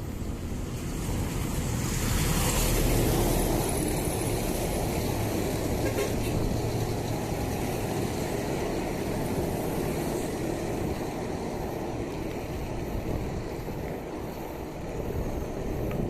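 Steady wind and road traffic noise outdoors during a bicycle ride, swelling louder about two to three seconds in.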